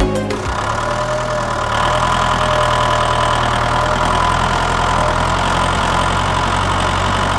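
A small engine idling steadily with an even, unchanging hum, coming in as background music cuts off in the first half second.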